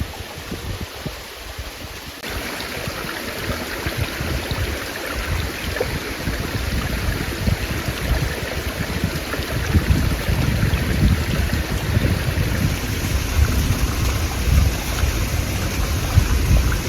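Wind blowing in gusts, with a steady rushing hiss and a low buffeting rumble on the microphone. It grows louder about two seconds in and gusts harder in the second half.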